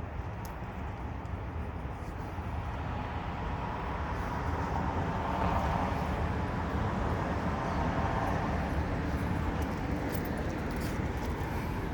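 Outdoor street noise: wind rumbling on the microphone and traffic, with a vehicle sound swelling louder about four seconds in and holding steady.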